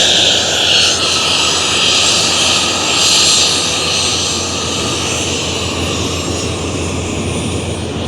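Aircraft engine noise from other airplanes on a busy airfield: a loud hiss with a faint whine, swelling and fading over the first few seconds, then running steadier and a little quieter.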